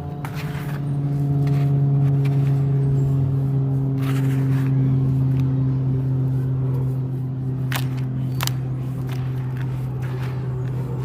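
Chunks of dry, gritty red sand crumbling, giving a few crisp crunches and scrapes, with two sharper cracks near the end. A steady low hum runs underneath and is louder than the crunches.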